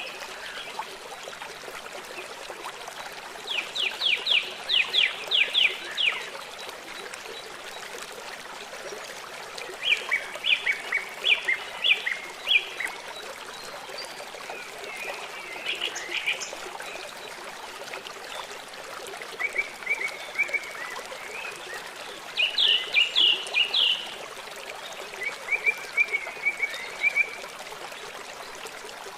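Small songbirds singing short phrases of quick repeated high notes, one phrase every several seconds, over the steady rush of running stream water.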